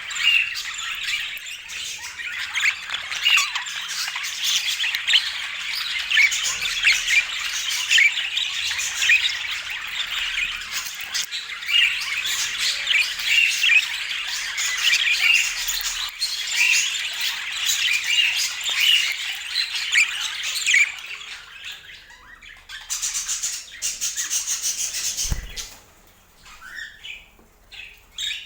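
Budgerigars chattering and chirping in a dense, continuous warble. It thins out after about twenty seconds, with a short burst of rustling noise a little later and a few chirps near the end.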